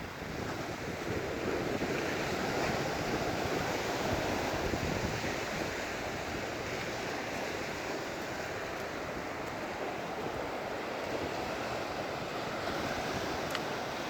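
Surf on a sandy beach: waves breaking and washing up the shore, swelling louder over the first few seconds and then settling into a steady wash, with wind buffeting the phone's microphone.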